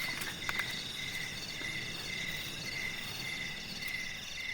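Night chorus of crickets and other insects: a steady high trill with a pulsing chirp repeating about twice a second.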